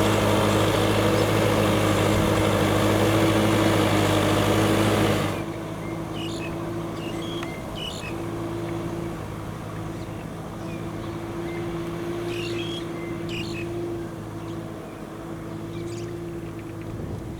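Kubota M6040SU tractor's diesel engine running loud and steady, then dropping abruptly about five seconds in to a quieter, steady engine hum. Short bird chirps are heard over the quieter part.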